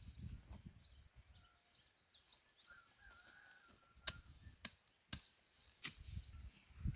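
Quiet outdoor ambience with faint bird chirps, broken by four sharp clicks or knocks in the second half.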